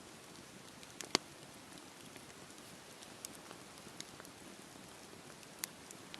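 Campfire crackling: burning wood gives a steady soft hiss with scattered sharp pops, the loudest a little over a second in.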